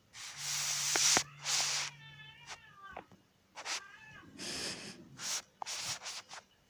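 Domestic cat meowing, with short wavering calls about two seconds in and again around four seconds, among several loud noisy rushes of sound.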